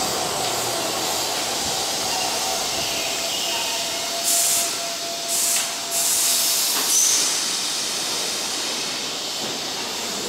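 Keihan Railway electric commuter train drawing up to the platform and stopping, with a faint whine that sinks slightly in pitch as it brakes. Twice, about four and five seconds in, there is a short loud hiss of compressed air from the train's air system as it comes to a stand.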